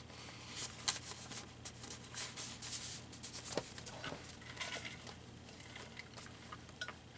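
Soft, scattered rustling and light tapping of paper ephemera being handled and sorted through by hand.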